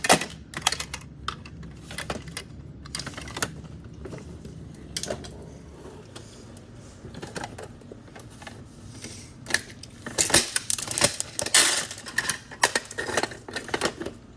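Irregular runs of rapid sharp clicking and clattering, dense at the start, sparse through the middle, and thick again from about ten seconds in.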